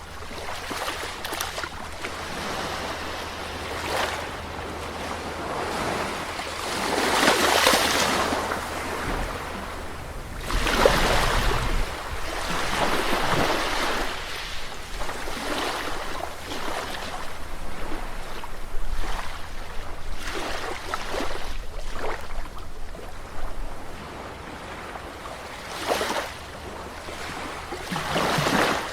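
Sea waves washing onto the shore in a steady rush, swelling every few seconds as each wave breaks, the biggest a few seconds in and again around the middle, over a steady low rumble.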